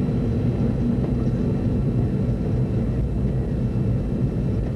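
DC-9 jet engines and airframe running steadily, heard inside the passenger cabin as a dense, low rumble.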